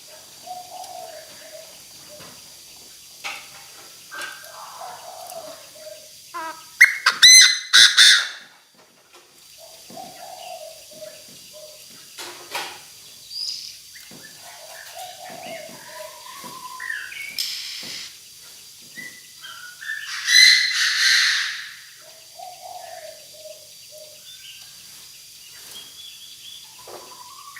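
Chinese francolin (đa đa) calls: a decoy bird calling to draw in a flock. Short, scattered calls run throughout, with two loud bursts of calling about seven seconds in and again about twenty seconds in.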